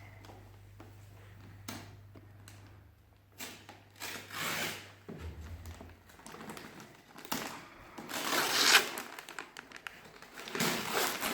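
Gift-wrapping paper being torn and crumpled by hand in irregular rustling bursts, loudest about eight seconds in.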